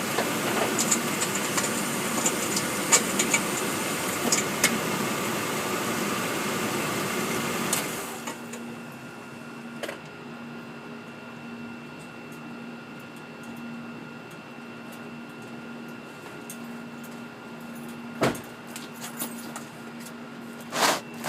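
Hummer underbody in gear with the brake held, making a rattling buzz with sharp ticks. The owner suspects the transmission, torque converter or differential. About eight seconds in the rattle stops, leaving a quieter steady idle hum, with one sharp click near the end.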